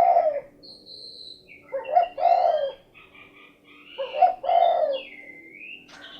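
Spotted dove (derkuku/tekukur) calling its repeated 'cukurukuk' coo, three phrases about two seconds apart. Other small birds chirp faintly between the coos, with a gliding whistle near the end.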